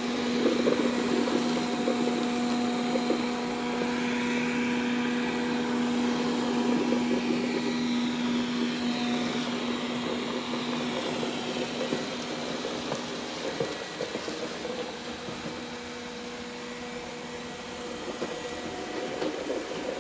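Dreame D10 robot vacuum running, a steady machine hum with a clear held tone that fades out a little past halfway through.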